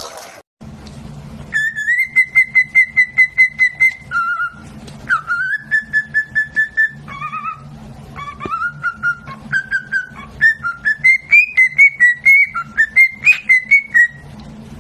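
A pet parrot whistling a tune in runs of quick, clear repeated notes that step up and down in pitch, over a steady low hum.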